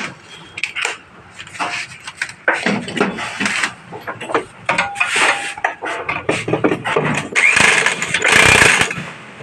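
Power impact wrench run in short irregular bursts to tighten the 12 mm nuts on a motorcycle exhaust silencer's mounting bolts. The longest and loudest burst comes near the end.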